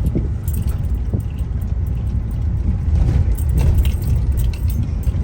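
Road noise heard from inside a car driving over a bumpy, unfinished road: a steady low rumble with light rattling and jangling as it jolts over the rough surface.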